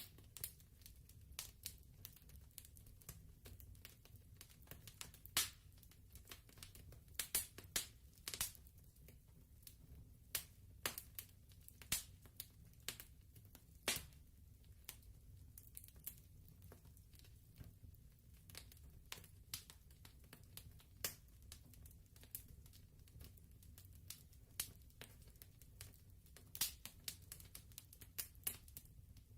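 Wood fire crackling softly: irregular sharp pops and snaps, several a second at times, over a low steady rumble.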